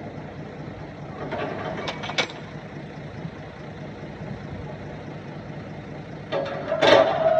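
Diesel engine of heavy earthmoving machinery running steadily at low revs, with a few short metallic clanks about a second and a half in. Near the end a louder clattering burst comes, with a steady mid-pitched tone.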